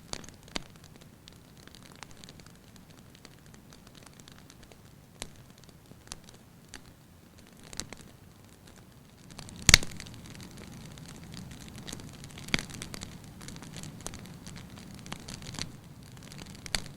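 Wood fire crackling in a fireplace: scattered small snaps and pops, with one sharp loud pop about ten seconds in and another a few seconds later, over a low rush of flames that grows a little louder after the big pop.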